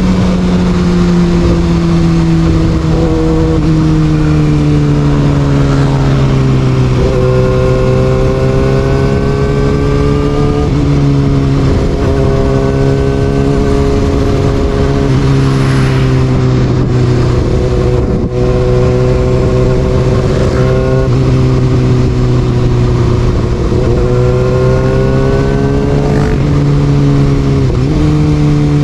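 Kawasaki Ninja ZX-6R's inline-four engine breathing through an Austin Racing aftermarket exhaust while riding, its pitch climbing as it pulls and stepping back at several gear changes.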